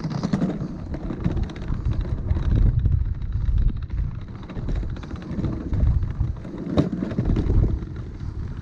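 Gusty wind on the microphone, a low rumble that swells and fades unevenly.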